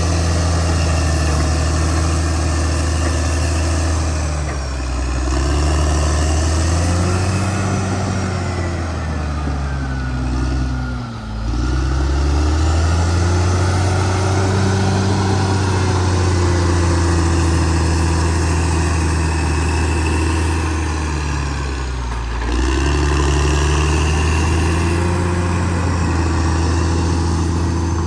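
CAT D6R XL bulldozer's diesel engine running steadily. Its pitch sags a few times, about four seconds in, around the middle and again near the end, and picks back up each time.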